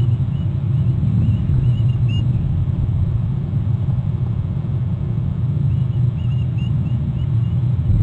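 Birds giving short, high, repeated chattering calls during a chase: a run of notes from the start to about two seconds in, then more around six seconds in. Under them is a loud, steady low rumble.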